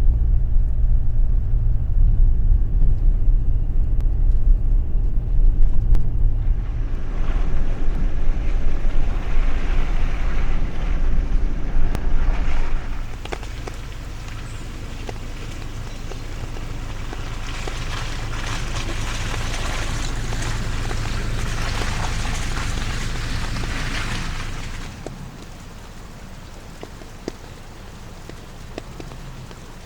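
A Toyota Hilux pickup's engine running with a steady low drone as the vehicle drives. About 13 seconds in it becomes quieter, with stretches of rushing noise over the engine.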